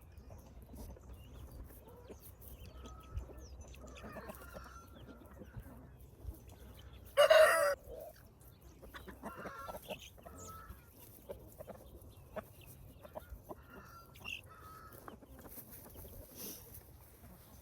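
Chickens clucking softly while they feed, with one loud, short squawk about seven seconds in.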